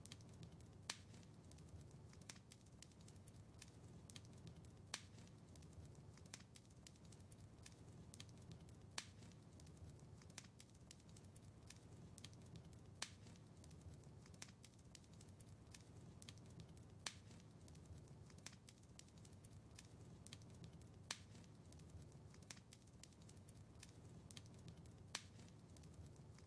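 Faint wood fire crackling in a fireplace: frequent small crackles, a louder pop about every four seconds, over a low steady rumble.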